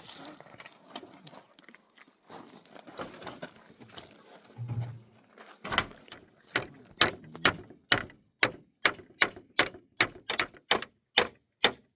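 Hammer striking wood, a steady run of sharp blows about three a second starting about halfway through, after scattered knocks and handling of timber.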